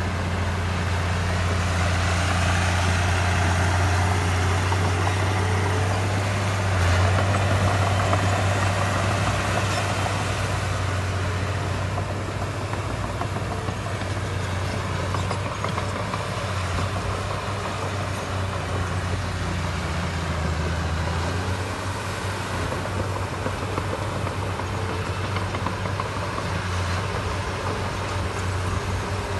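Heavy diesel engine of construction machinery running steadily with a strong low drone. It grows a little louder in the first ten seconds, then settles.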